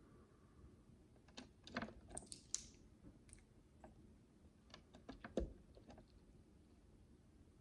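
Tiny plastic micro bricks clicking and tapping as they are handled and pressed together: a scatter of faint light clicks, busiest between about one and three seconds in, with one duller, louder knock a little past five seconds.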